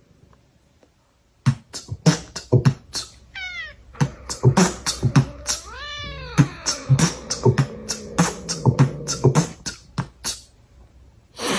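A cat meowing: a short falling meow about three seconds in and a longer rising-and-falling meow about six seconds in, among a quick run of sharp clicks or beats.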